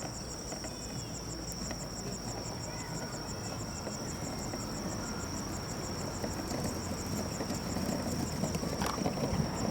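Insects chirping: a steady high-pitched trill and a fast-pulsing one, both unbroken. Underneath is a low background murmur that grows louder near the end.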